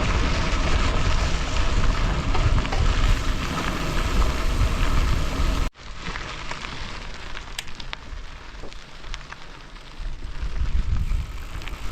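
Wind rushing over the microphone while cycling, with rumble of tyres on a gravel road. It cuts off suddenly about six seconds in, giving way to a quieter rushing with a few small clicks.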